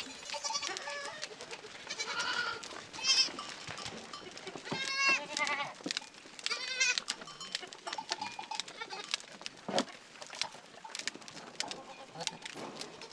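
Goats bleating, several separate wavering calls with scattered small clicks in between.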